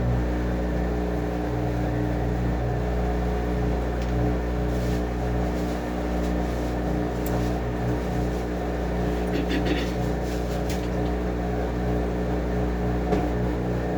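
Washing machine running, its motor giving a steady hum with several held tones over a low rumble, and a short rattle of clicks about ten seconds in.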